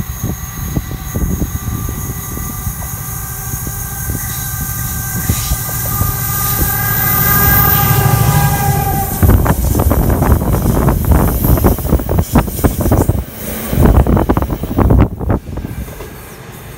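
Colas Rail Freight Class 70 diesel freight locomotive approaching and passing close under power, its engine drone growing louder to a peak about nine seconds in. Then the loaded tank wagons clatter past over jointed track in a rapid, irregular run of wheel knocks that fades near the end.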